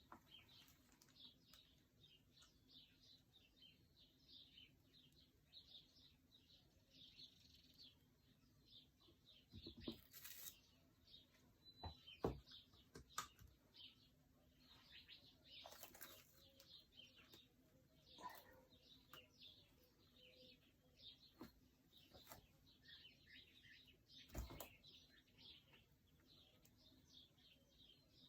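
Faint, continuous chirping of small birds, with a few short knocks or taps scattered through it.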